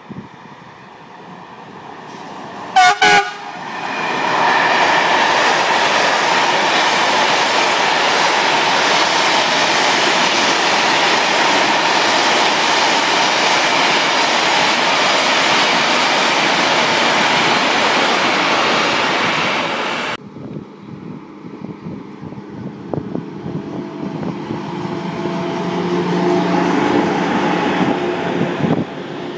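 An electric locomotive gives two short horn blasts, then passes hauling a freight train of covered hopper wagons: a loud, steady rush of wheels on rail that ends abruptly about two-thirds of the way through. After that, quieter rolling of passenger coaches going past, with faint steady tones swelling near the end.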